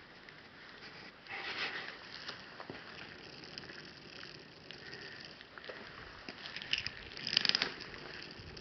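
Wood fire crackling in a fireplace: a steady hiss with scattered pops, and two louder spells of crackling, about a second in and near the end.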